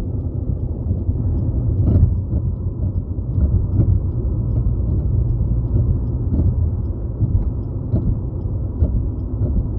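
Steady low rumble of tyres and wind heard inside a car cabin as the car coasts along a highway, with a brief bump about two seconds in.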